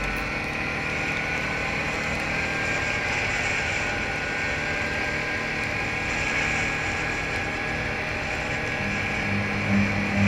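Motorcycle riding at speed: steady engine and wind noise, with the engine pitch rising slowly. Near the end a louder, low pulsing sound comes in.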